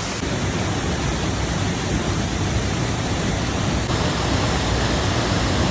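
Waterfall rushing: a steady, loud roar of falling water with a heavy low rumble.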